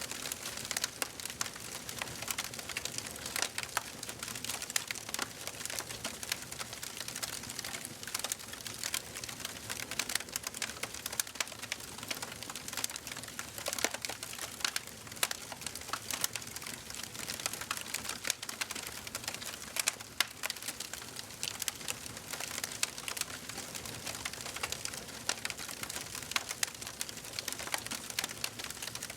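Wood fire burning in a fireplace, crackling steadily with dense small snaps and scattered louder pops.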